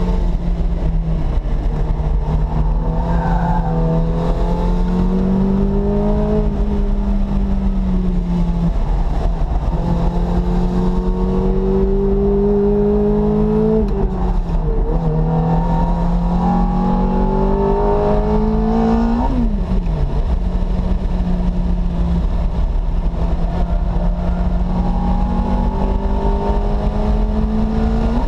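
Ferrari F430's V8 engine heard from inside the cabin, pulling hard with its pitch climbing steadily and dropping sharply at upshifts: once about halfway through, again a few seconds later, and at the very end. A steady low road and wind rumble runs underneath.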